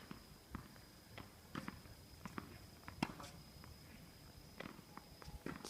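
Footsteps and light knocks at irregular spacing, some a little louder than others.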